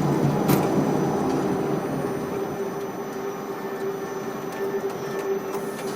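Ship-to-shore crane machinery running: a steady mechanical hum under a rumble that eases off after about two seconds, with a few light clicks.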